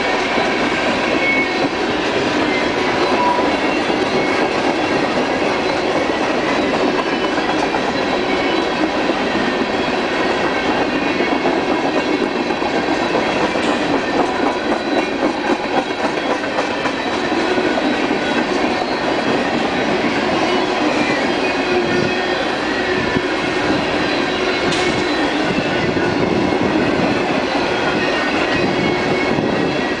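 Freight train of CSX coal hopper cars rolling steadily past close by: a continuous loud clatter of steel wheels on the rails, with thin high-pitched wheel squeal over it.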